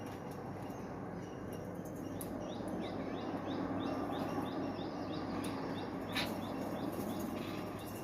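Pet parrot chirping in a quick run of short, high calls, about three a second, with one louder call near the end, over a steady background hum.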